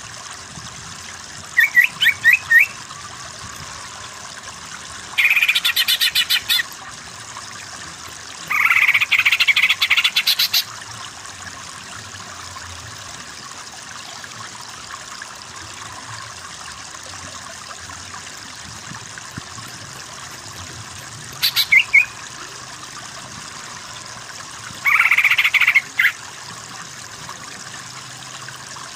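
Animal calls in five separate bursts of rapid, evenly repeated pulses, each lasting from half a second to about two seconds, over a steady background hiss.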